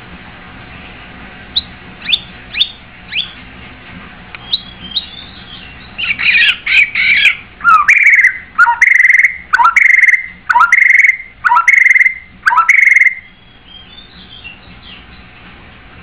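White-rumped shama singing. A few short falling notes come first, then a loud run of quick notes, then six repeated phrases about a second apart, each a note sliding down into a held whistle. The song breaks off well before the end, leaving faint twittering.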